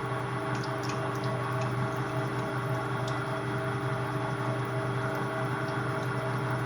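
Metal lathe running steadily: a constant machine hum with a hiss and a few faint ticks.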